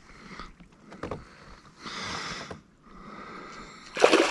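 A hooked bass being fought from a kayak: a few clicks and short noisy water rushes, then a loud splash near the end as the fish thrashes at the surface.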